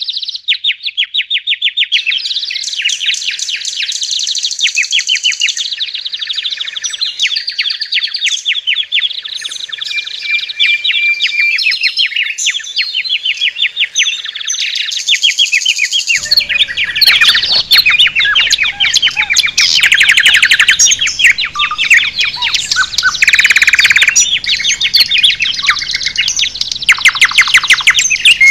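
Many songbirds singing together: rapid, overlapping chirps and trills. About halfway through, a low background rumble joins them.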